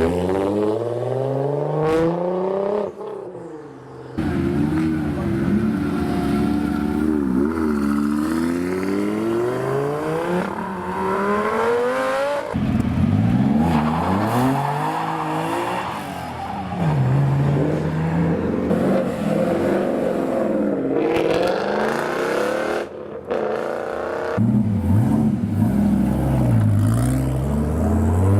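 Several supercar engines in turn revving and accelerating hard, the pitch climbing and then dropping with each gear change. The sound cuts abruptly from one car to the next a few times.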